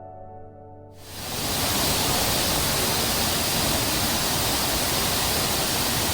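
Soft piano music fades out about a second in, and a steady rush of falling water from a waterfall swells in and holds.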